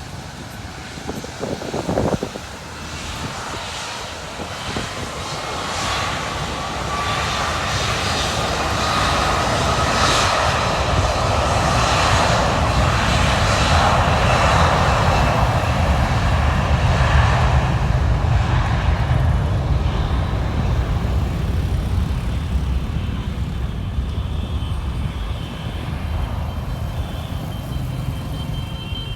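Airbus A330 freighter's twin jet engines at takeoff power, the roar swelling to a peak midway and slowly fading, with a thin whine rising in pitch over the first half. A sharp knock sounds about two seconds in.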